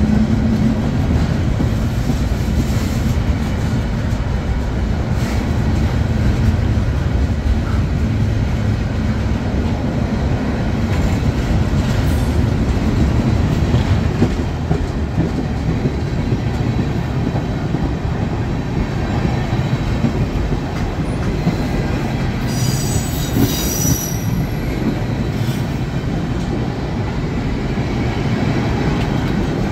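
Freight train rolling past, its cars making a steady rumble on the rails, with a brief high wheel squeal about three-quarters of the way through.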